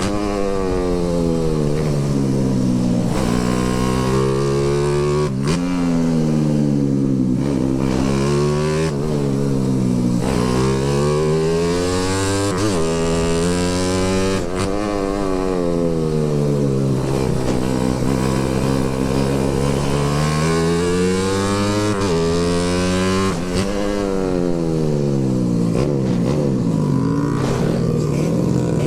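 Motorcycle engine running under way, its pitch falling and rising over and over as the throttle is closed and opened again, with a longer steadier low stretch in the middle.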